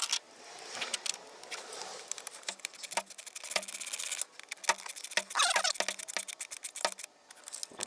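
Light clicks and small metallic rattles of hand tools working on the engine, likely from screwing a sensor back in place, with evenly spaced ticks about twice a second through the middle.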